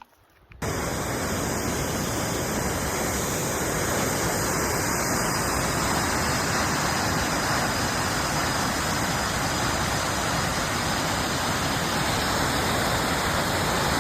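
Loud, steady rush of a waterfall close by, starting abruptly about half a second in.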